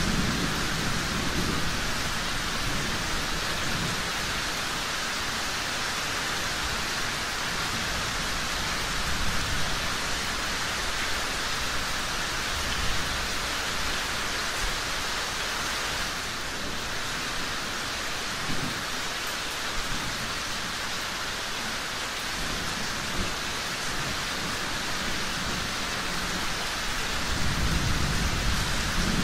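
Steady rain falling, an even hiss, with low rumbles swelling at the start and again near the end.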